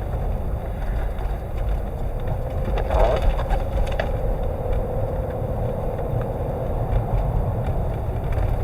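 Car driving through a blizzard, heard from inside the cabin: a steady low rumble of road and engine with wind noise. A faint steady whine comes in about two and a half seconds in and fades a few seconds later, with a brief knock about three seconds in.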